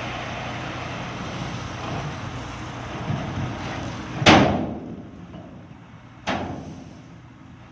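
Scania P460 XT dump truck's diesel engine running steadily, with two loud bangs about two seconds apart, the first the louder.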